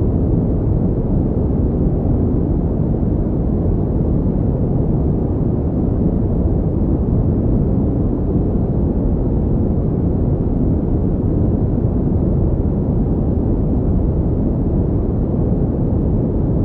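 Synthetic pink noise: a steady, unchanging deep rushing hiss, weighted toward the low end.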